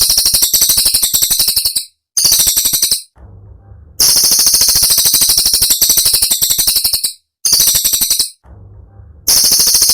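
Cililin bird singing a sharp, rapid, high-pitched rattling trill, a 'tembakan' phrase. It comes in long bursts broken by short gaps: a burst, a brief one near the two-second mark, a pause, a long burst from about four to seven seconds, another brief one, then a new burst near the end.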